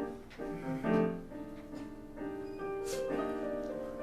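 Piano playing slow, held chords, a new chord coming in every second or so.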